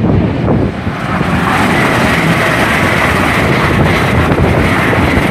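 Great Western Railway Class 800 train passing through the station at speed: a loud rush of wheels and air that grows about a second in, with a steady high whine over it.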